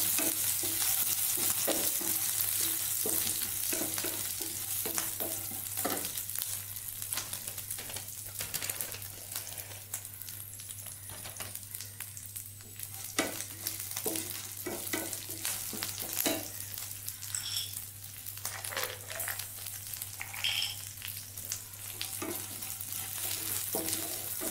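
Oil sizzling in a nonstick pan as dal, dried and green chillies and curry leaves fry over a low flame, with a wooden spatula stirring and scraping through them and giving scattered clicks. The sizzle is strongest at first and eases after a few seconds.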